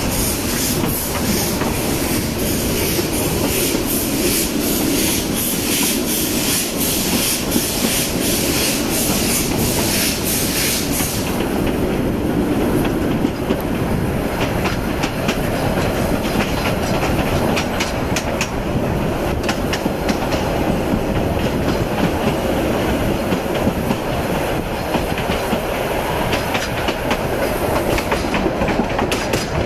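Narrow-gauge steam train's carriages running along the track, heard from an open carriage window: a steady rumble with the wheels clicking over the rail joints. A high hiss fades out about eleven seconds in.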